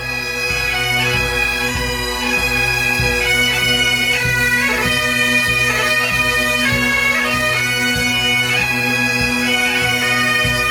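Great Highland bagpipes playing a tune, the melody moving over steady, unbroken drones.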